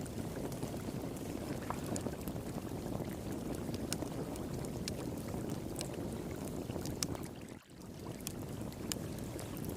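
Wood fire pit crackling with scattered sharp pops over the steady rush of flowing water. The sound drops out briefly about three-quarters of the way through.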